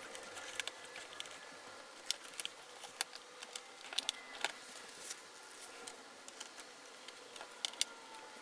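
Scattered small clicks and taps of tweezers and plastic parts being handled inside a laptop's display housing, irregular and some louder than others, over a faint steady hum.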